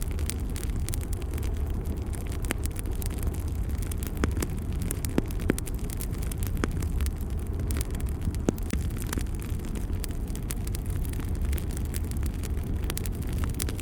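Wood fire burning in a fireplace: a steady low rumble of the flames with frequent sharp crackles and pops at irregular moments.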